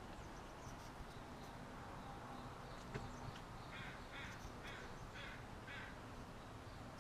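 A bird gives five rough calls in a row, about half a second apart, starting a little past halfway through, over a faint steady hiss. A single sharp click comes a few seconds in.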